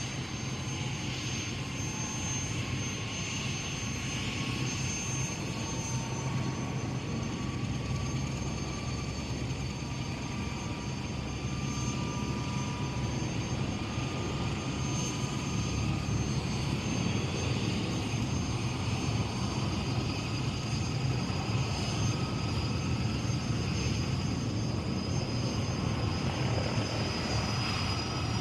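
Bell UH-1 'Huey' helicopter running steadily, its turboshaft engine and rotor giving a continuous roar with a thin high turbine whine over it. The whining tones drift slowly in pitch, and the sound grows a little louder about halfway through.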